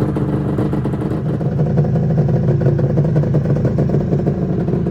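1996 Arctic Cat ZRT 600 snowmobile's three-cylinder two-stroke engine running steadily, with the fuel pump freshly rebuilt.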